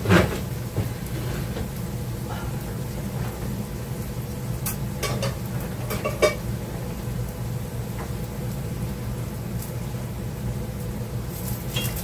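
Diced onions and eggplant sizzling steadily in a frying pan, the heat just turned down, with a few sharp clicks and knocks of utensils being moved.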